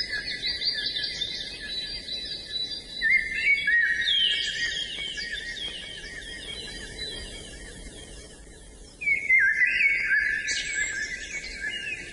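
Songbird song: long, rapid, warbling phrases of high notes. The song grows quieter through the middle, and a loud new phrase bursts in about nine seconds in.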